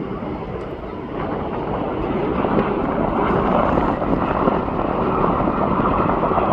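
Jet engine noise from a Bombardier CRJ-701 regional jet, a steady rush that grows louder about two seconds in and then holds.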